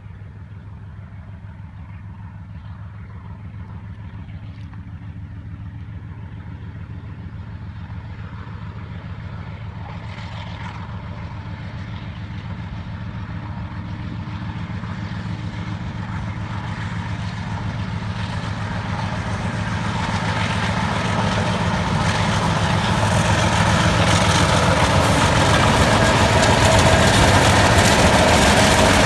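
Diesel-electric locomotive of an approaching train running steadily, growing louder throughout. Rising wheel-on-rail noise joins it over the last several seconds.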